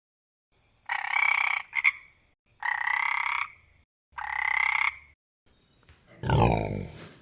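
Frog croaking: three calls of under a second each, about a second and a half apart, with a short click-like note after the first. Near the end comes a louder, deeper animal call that falls in pitch.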